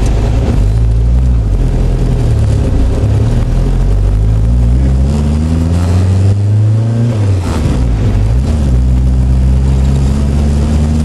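Turbocharged Alpine A110 engine heard from inside the cockpit, accelerating hard with its pitch climbing, dipping briefly about seven seconds in, then climbing again.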